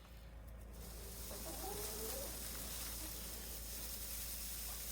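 Hens clucking quietly in a few short wavering calls over a steady hiss.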